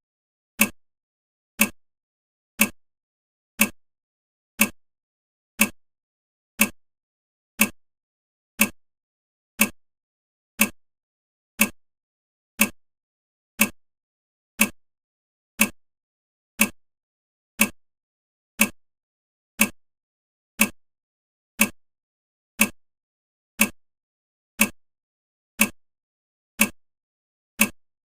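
Countdown timer's tick sound: one short, sharp click every second, evenly spaced, marking off each second of the countdown.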